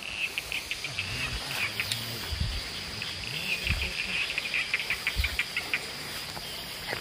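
Forest insects calling: a steady high whine with clusters of rapid chirping pulses, over a few dull low thumps.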